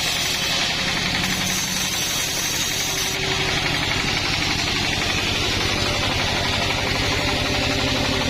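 Chainsaw engine running steadily under a fast, even firing pulse, with a shift in its sound about three seconds in.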